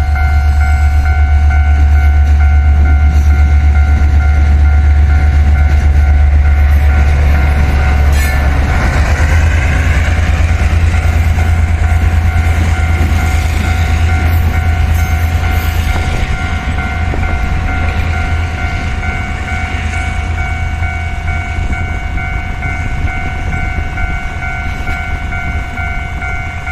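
Diesel-hauled freight train passing a level crossing: a loud, low locomotive engine rumble for the first eight seconds or so, then a clank and the wagons rolling by with wheel clatter, fading toward the end. The crossing's warning bell rings steadily throughout.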